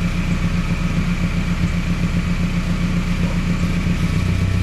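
1996 Toyota Tacoma engine running steadily at idle while its idle-speed screw is being adjusted. Its idle had been set too low, letting it die off. About four seconds in, the engine note shifts slightly.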